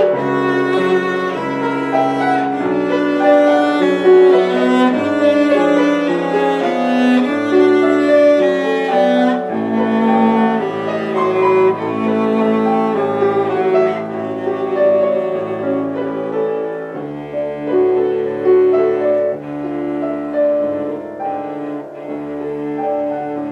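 Cello and piano playing together: a melody of held bowed notes, some with vibrato, over a piano accompaniment.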